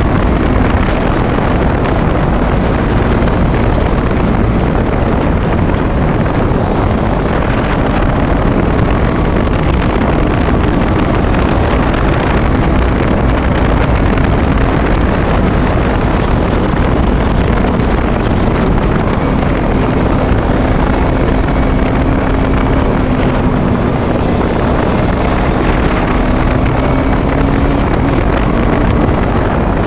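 Motorcycle engine running at a steady cruising speed, its pitch drifting slightly, under heavy wind noise on the microphone.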